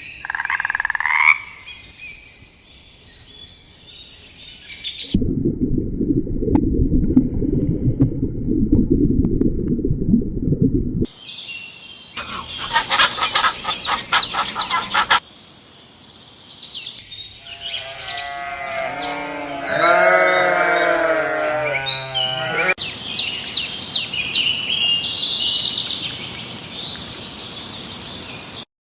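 A sequence of wildlife sounds: high bird chirps, a cut to about six seconds of low rumbling noise, then dense rapid calls and a run of repeated pitched croaking calls, then birds chirping again.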